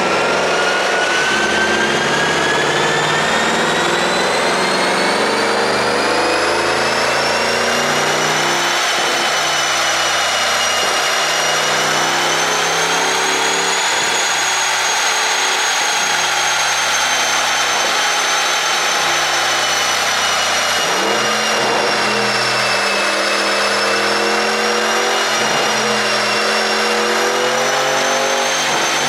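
Porsche Cayenne Turbo Coupe's twin-turbo V8 running steadily under a high whine that climbs over the first dozen or so seconds and then wavers. The engine note changes about two-thirds of the way through.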